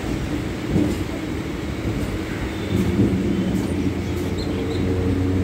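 Suburban electric multiple-unit (EMU) train running along the track, heard from its open doorway: a steady rumble of wheels on rail, joined by a steady low hum about halfway through.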